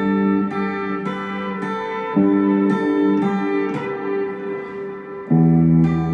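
Electric guitar played through a Mooer GE100Pro multi-effects preset. Picked notes ring over sustained chords, with a fresh, louder chord struck about five seconds in.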